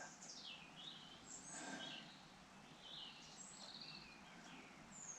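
Faint bird chirps: short, high, falling whistles repeated every second or so.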